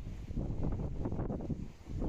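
Wind buffeting the microphone: an uneven, gusty rumble, dipping briefly near the end.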